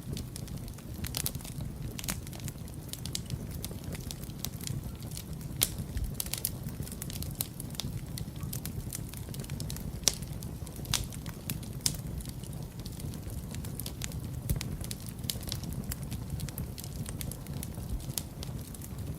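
Wood fire burning in a fireplace: a steady low rumble of flames with frequent irregular crackles and a few louder pops.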